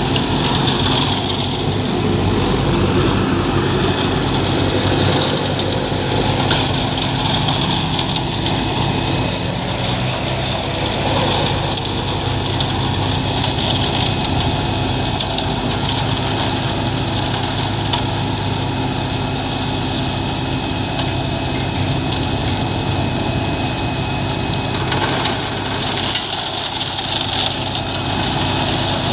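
Heavy diesel engine running steadily, a constant low drone with a rushing hiss over it, typical of a concrete mixer truck at work. The hiss grows louder for a moment about 25 seconds in.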